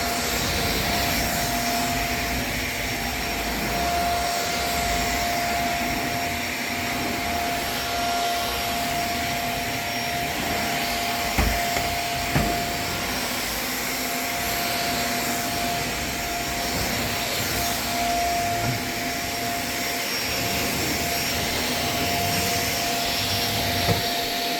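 Vacuum cleaner running at full speed: a steady motor whine over a rush of air, with two short knocks about halfway through.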